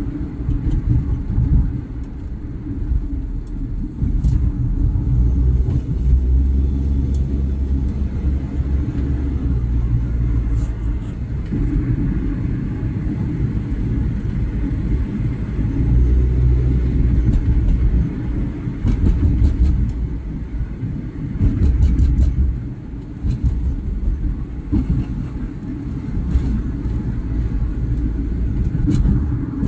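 Car driving on the road: a steady low rumble of engine and tyres that swells and dips, with a few faint clicks.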